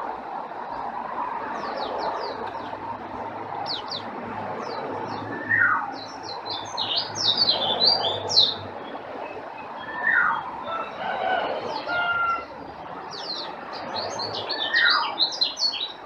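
Several songbirds singing in a bird-training (masteran) recording: clusters of quick high chirps, and a clear whistled note falling in pitch that comes back about every four to five seconds. A steady even background noise runs underneath.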